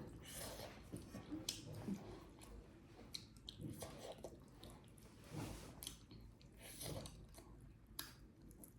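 Faint, close-miked chewing of rice and chicken curry: soft wet mouth sounds with scattered small clicks and smacks at irregular intervals.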